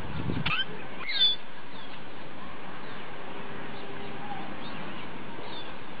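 Steady outdoor hiss with a few short, high bird chirps about half a second to a second in and fainter ones later; a brief low rumble at the very start.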